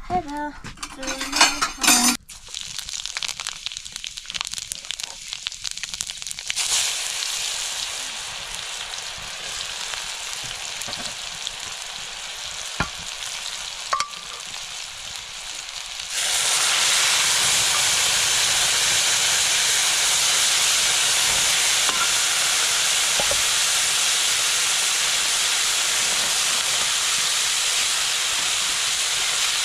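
Food sizzling in hot oil in a pan. The sizzle steps up a little after a few seconds, then jumps much louder about halfway through and holds steady, with a couple of light knocks before the jump.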